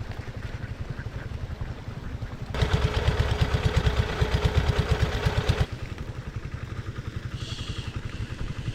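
A small engine running with a rapid, even chug. For about three seconds in the middle it is louder, with a steady hum added, cutting in and out abruptly.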